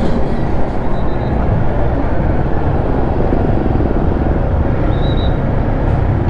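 Steady road-traffic and vehicle noise with a heavy low rumble and no single event standing out.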